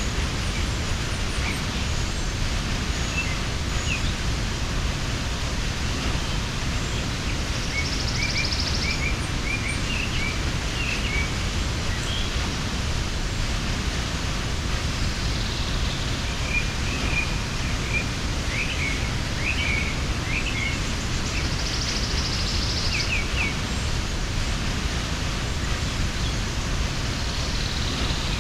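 Waterfall rushing steadily, with small birds chirping now and then in clusters a few seconds long.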